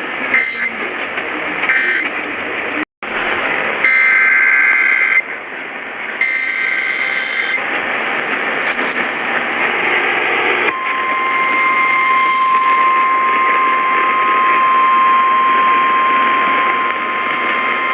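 Emergency Alert System sequence heard over AM radio with steady static hiss: two short screeching data bursts, then about eleven seconds in a steady single-pitched weather warning alarm tone that holds to the end, the sign that a new warning is about to be read.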